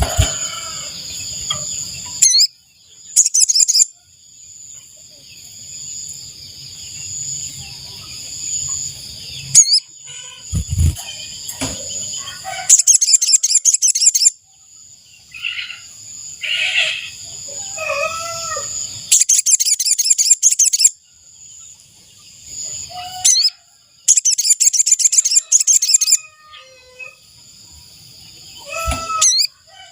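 Sogon (sogok ontong) birdsong of the kind played to lure wild birds: bursts of rapid high trills, each a second or two long, repeated several times over a steady high-pitched ringing, with a few lower whistled notes between the bursts.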